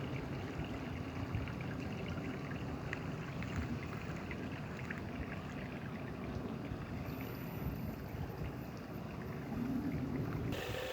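Creek water running and splashing over rocks, a steady rush with small scattered trickles and splashes.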